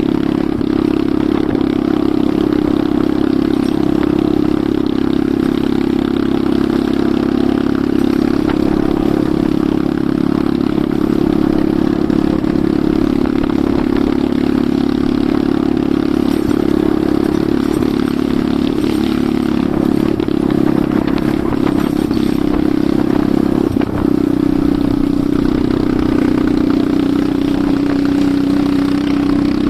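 Enduro motorcycle engine running at fairly steady revs while riding. About two-thirds of the way through it dips briefly, then settles at a slightly different pitch toward the end.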